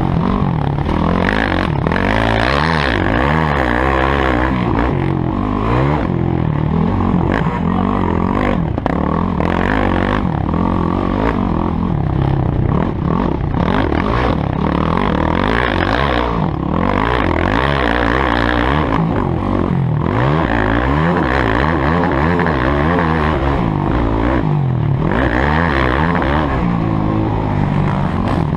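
Motocross dirt bike engines revving up and down continuously, several pitches rising and falling and crossing one another, loud throughout.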